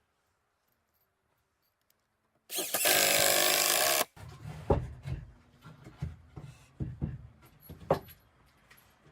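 Woodworking sounds: after a stretch of silence, a power tool runs for about a second and a half and stops abruptly. Irregular knocks, clicks and rubbing of wood being handled follow.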